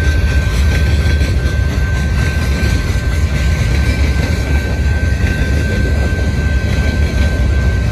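Loaded covered hopper cars of a freight train rolling steadily past: a continuous deep rumble of wheels on rail, with a thin steady high whine running through it.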